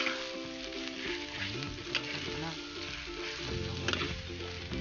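Boiled chicken intestines sizzling as they sauté in oil in a frying pan, being browned. A spatula turns them, with a few sharp scrapes against the pan.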